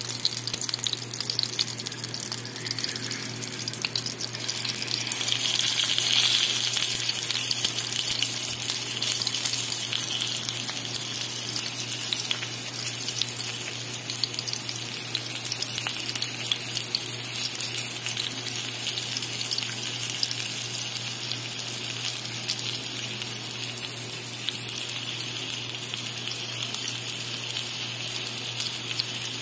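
Chicken breast frying in oil in a pan: a steady sizzle dotted with small pops, briefly louder about six seconds in, over a steady low hum.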